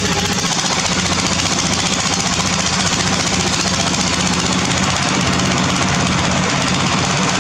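Heavy diesel construction machine running steadily under load: a low engine drone with a fast, even rattle over it.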